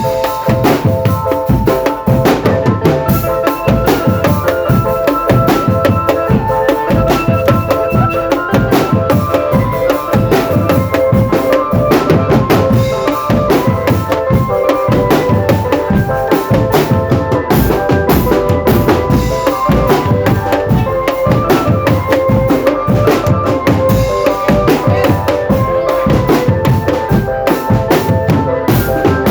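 Indonesian marching drum band playing a fast, continuous beat on snare and bass drums, with a held melody sounding over the drumming.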